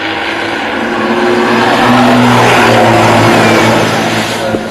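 Racing vehicle passing at speed, its engine note swelling to a peak near the middle and then fading as it moves away.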